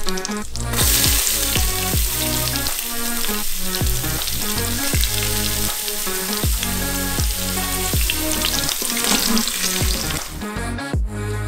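Chopped ginger and whole spices sizzling in hot ghee in an Instant Pot's steel inner pot on sauté mode. The hiss gets much louder about a second in, as the ginger goes in, and drops away near the end, under background music with a steady beat.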